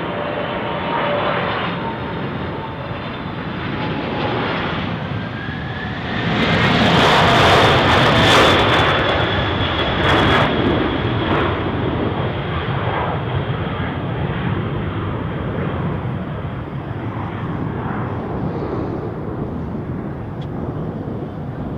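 A Boeing 747-400F's four GE CF6-80C2 turbofans passing low overhead. A heavy jet roar with whining engine tones swells to its loudest about six seconds in, then eases off slowly as the aircraft moves away.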